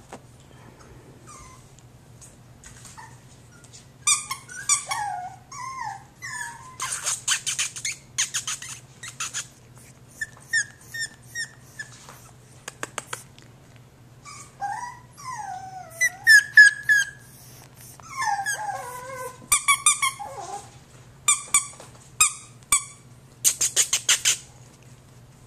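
Jack Russell Terrier puppy whining and yipping in many short calls that slide up and down in pitch, mixed with sharp high squeaks.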